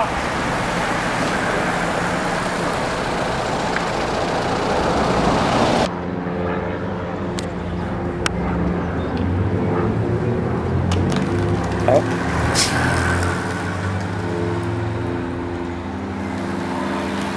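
Rushing wind and road noise, then from about six seconds in the steady running of a motor vehicle's engine, with a few light clicks over it.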